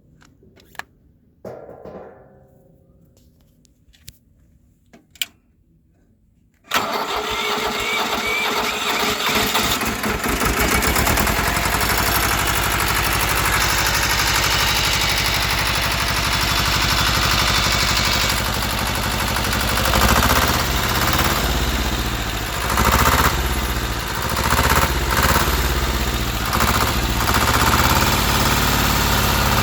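Deutz F2L 511 two-cylinder air-cooled diesel starting. After a few faint clicks it starts suddenly about seven seconds in and runs steadily, its speed rising and falling over the last ten seconds.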